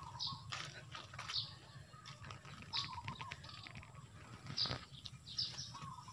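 Birds chirping in short high calls about once a second, with a wavering whistle-like call and a couple of soft clicks, the clearest about three quarters of the way through.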